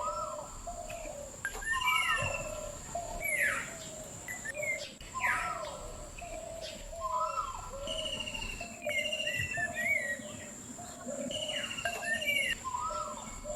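Birdsong chirps and whistles, with the same short sequence of calls repeating every few seconds, as in a looped background track.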